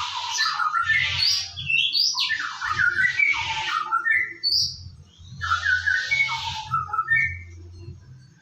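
White-rumped shama singing: three bursts of song, each about two seconds, mixing harsh rasping notes with short whistled notes, with brief pauses between them.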